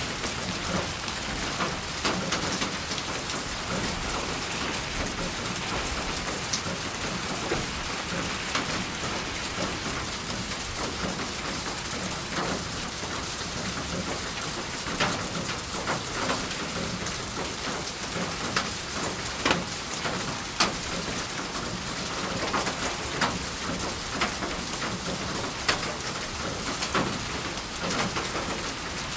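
Steady rain falling: a dense, even hiss with scattered sharper drop hits throughout.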